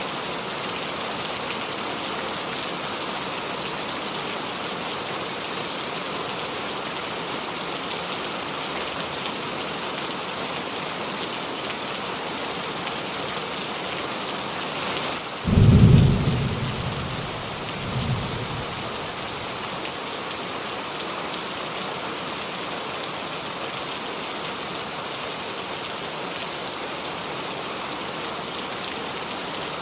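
Steady rain falling on a roof, an even hiss. About halfway through, a single loud, low clap of thunder rumbles and dies away over a second or so, followed by a smaller rumble about two seconds later.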